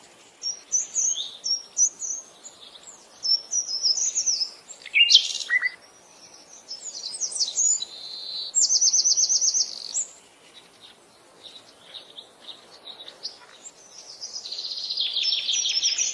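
Several songbirds singing and calling: quick high chirps and whistled phrases, a sharp falling call about five seconds in, and a fast even trill just before the middle. Another trill builds up and grows louder near the end.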